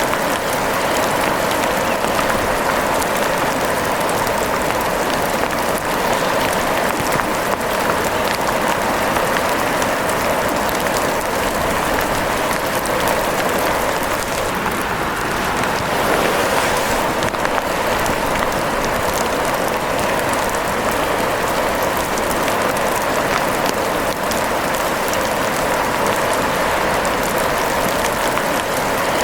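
Steady rain pattering, a dense even hiss of drops with no let-up.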